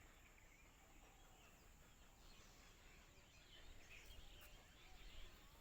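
Near silence: faint outdoor background with a few distant bird chirps.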